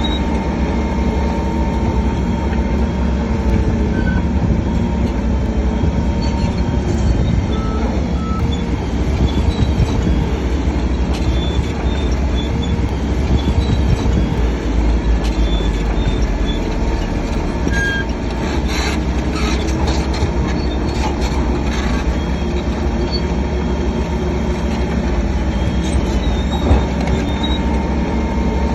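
Crawler bulldozer at work: its diesel engine runs steadily under load while the steel tracks squeal in short high notes, with a run of metallic clanks about two-thirds of the way through.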